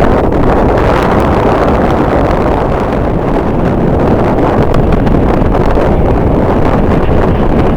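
Strong wind blowing across the microphone: a loud, steady rumbling noise.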